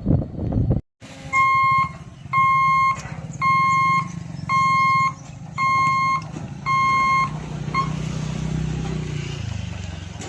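Six evenly spaced electronic beeps, each about half a second long and about one a second, over a steady low rumble. A short loud burst at the very start cuts off abruptly.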